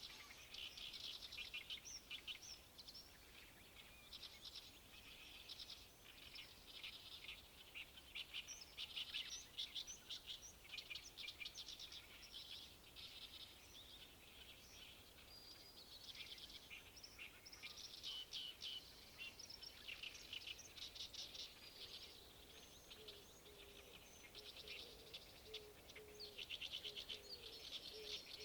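A songbird singing faint, repeated phrases of rapid chattering notes, with short pauses between phrases.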